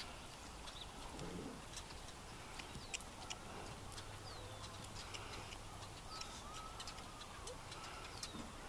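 Faint outdoor ambience: birds chirping and calling, several short falling chirps and one longer arching call about two-thirds of the way in, over scattered light clicks.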